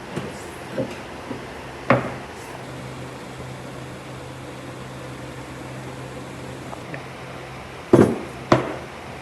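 Hard knocks of wood being struck or set down: a few light ones early, a sharp one about two seconds in, and the loudest pair near the end, half a second apart. A steady low hum runs underneath.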